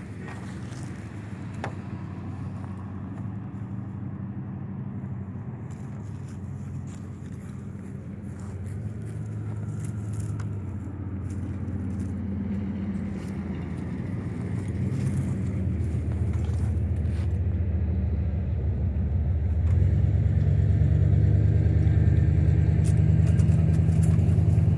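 A car engine running steadily, a low hum that grows louder throughout and is loudest over the last few seconds.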